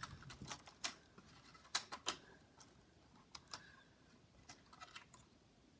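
Light, irregular clicks and taps from a laptop keyboard being handled and fitted into its chassis, about a dozen in all, sparser toward the end.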